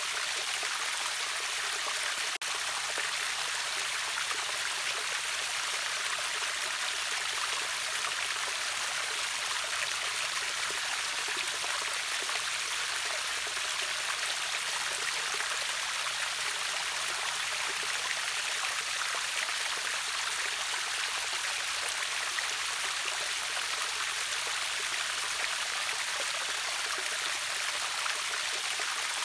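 River waterfall rushing steadily, an even hiss of falling and flowing water with a brief dropout about two seconds in.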